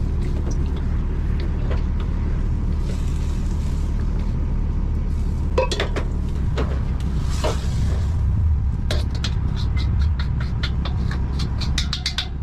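A steady low mechanical rumble runs throughout, with a few short hissing swells. Over the last three seconds or so comes a quick run of light clicks and taps.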